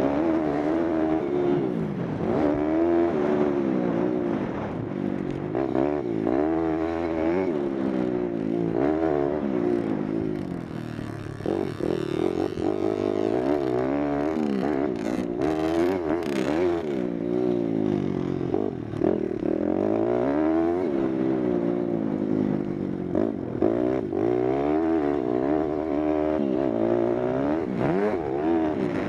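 Single-cylinder four-stroke pit bike engine being ridden hard, its pitch rising and falling over and over as the throttle opens and closes through corners and gear changes.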